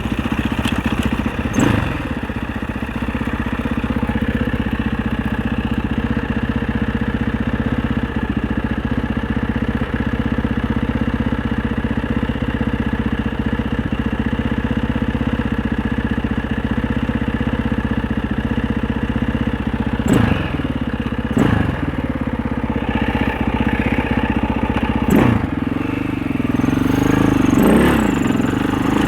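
Husaberg 650 enduro bike's single-cylinder four-stroke engine running at a steady low speed, with a few short, sharp blips of the throttle about two-thirds of the way through and uneven rising and falling revs near the end.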